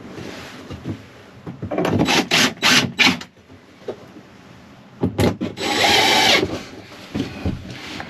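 Hand work on wood: a quick run of about five scraping strokes, then a couple of clicks and one longer scrape lasting about a second.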